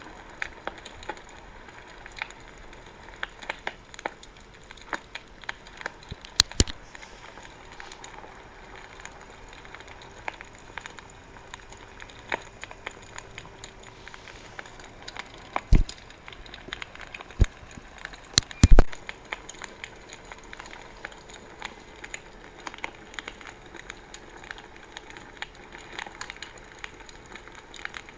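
Wood bonfire crackling, with frequent small irregular snaps. A few louder pops come about six seconds in and again around sixteen and nineteen seconds in, the loudest near nineteen seconds.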